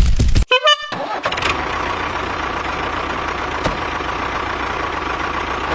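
An engine starts with a loud burst, then runs at a steady idle with a faint constant whine.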